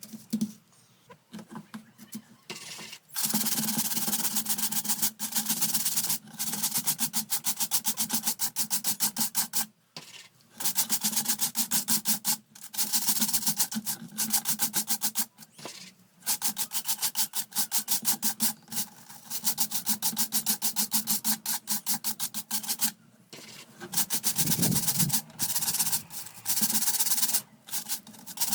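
Rapid back-and-forth scrubbing on a fan part being cleaned, in bursts of a few seconds broken by brief pauses.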